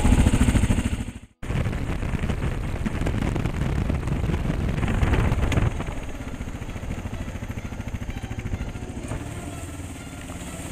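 Kawasaki KLR650's single-cylinder engine running as the motorcycle is ridden. The sound starts after a brief silence just over a second in and drops in level about six seconds in.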